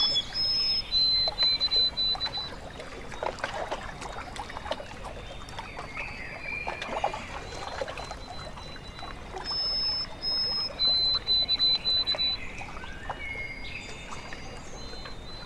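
Small waves lapping and trickling at a lake shore, with a bird singing phrases of high, steady notes near the start and again about two-thirds of the way through.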